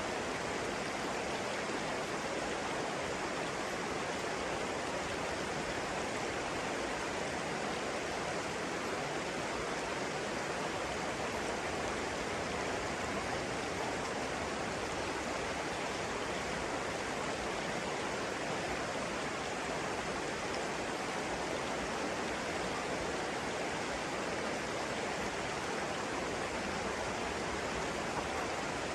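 Flowing water, a steady unbroken rush with no rise or fall.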